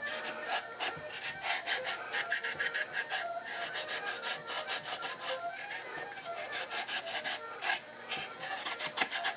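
Quick back-and-forth scrubbing on the wooden body of an old hand-crank coffee grinder, scraping off old residue.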